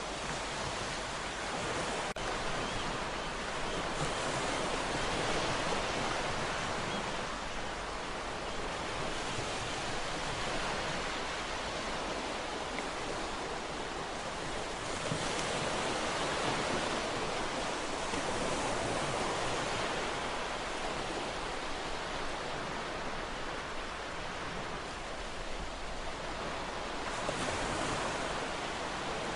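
Ocean waves washing ashore in a steady surf, swelling and easing every several seconds.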